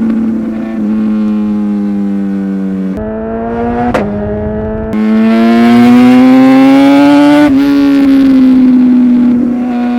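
Superbike engine running at high revs, loud. The note eases off and dips about three seconds in, with a sharp click a second later. It then climbs steadily in pitch under acceleration and drops suddenly at a gear change about seven and a half seconds in, holding steady afterwards.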